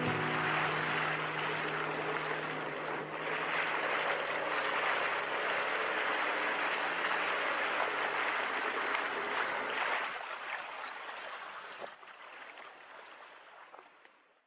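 Steady rushing of water and spray during a jet ski ride, weakening after about ten seconds and fading out near the end, with a few sharp ticks along the way.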